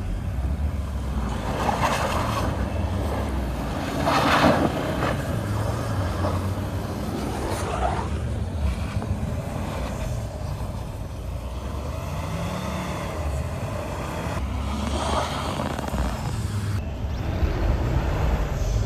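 Volvo XC70 D4 AWD's five-cylinder diesel engine running under load through deep snow, with several loud rushes of noise from snow and wind, and a short rev about twelve seconds in.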